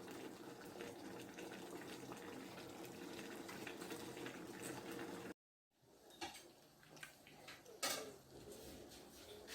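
Pot of vegetable sauce with chicken and fish simmering, a faint steady bubbling that cuts off abruptly about five seconds in. It is followed by quiet room sound with a few light knocks.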